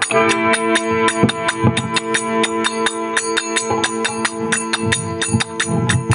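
Instrumental passage of a Rajasthani desi bhajan: held drone notes under hand percussion striking a fast, steady beat of about five strokes a second.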